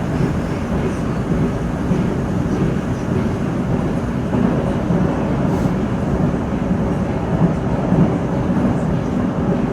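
Metro train running at speed between stations, heard from inside the carriage: a steady, loud noise from the wheels on the rails and the running gear.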